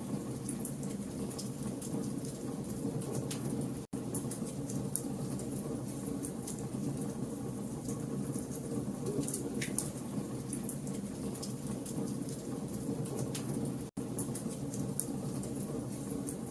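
Campfire of burning logs crackling, with scattered sharp pops and snaps over a steady low rush of flame. The sound cuts out for an instant twice.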